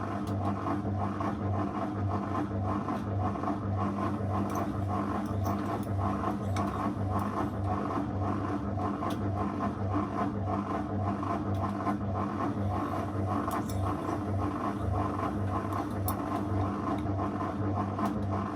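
Zanussi FL984CN washing machine running, a steady motor hum with a faint regular pulse and a few light ticks.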